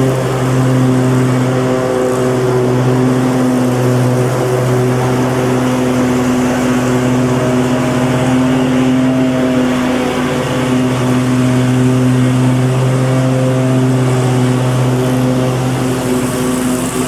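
Lawn mower engine running steadily at constant speed, a steady engine hum with a layer of noise over it.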